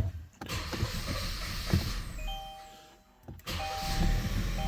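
Kia Sorento 2.0 turbo four-cylinder engine being restarted after stalling: a click, a few seconds of cranking that fade out, then the engine catches again about three and a half seconds in and runs roughly on a two-cylinder misfire. The car's dashboard warning chime beeps repeatedly from about two seconds in.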